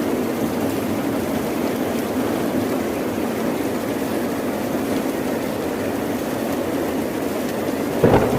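Steady rain and ocean-wave noise, an even rushing wash. A sudden short, louder thump breaks through about eight seconds in.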